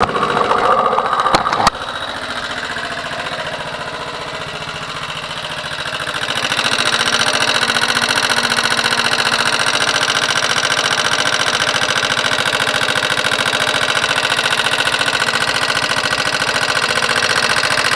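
Motorcycle engine idling with a fast, steady ticking knock from the top end. The knock persists after valve clearances were set to 0.05 mm intake and 0.07 mm exhaust; the owner is unsure whether it is the valves or something else tapping. A few sharp clicks in the first two seconds, and the engine gets louder about six seconds in.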